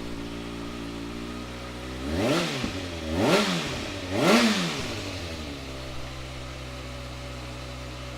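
Kawasaki ZX-6R 636's inline-four engine idling through a Leovinci titanium aftermarket exhaust, blipped three times in quick succession a couple of seconds in, each rev rising and falling back, then settling back to a steady idle.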